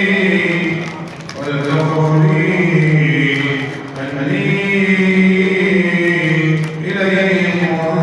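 A male munshid chanting a religious nasheed unaccompanied, holding long, slowly ornamented notes in phrases broken by short pauses for breath about a second in, at four seconds and near the end.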